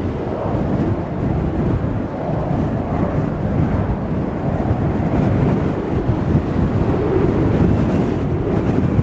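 Strong gusty wind buffeting the microphone, a loud low rumble that swells and eases.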